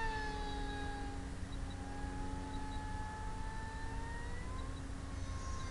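Avionik D-99 electric pylon racer's brushless motor and small propeller whining in flight. The pitch drops as the plane passes in the first second, rises again around four seconds in as it comes back, and starts to drop again at the very end. Wind rumbles on the microphone underneath.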